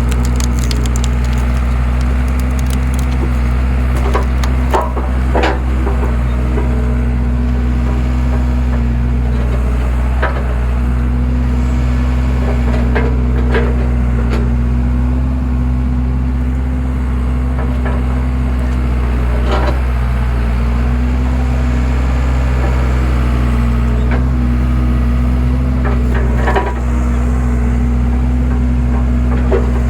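Skid steer engine running steadily while a homemade splitter attachment forces logs apart, with wood cracking and splintering every few seconds.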